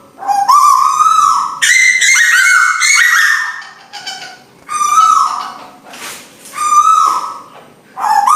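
Lure recording of tuwu bird calls: a series of loud calls about a second each, each holding its pitch and then dropping at the end, with several overlapping higher-pitched calls between about two and three and a half seconds in.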